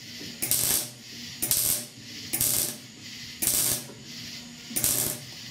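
Electric welding arc struck in five short bursts about a second apart, each well under a second long: stitch-welding a sheet-metal patch panel into a rusted truck's inner roof.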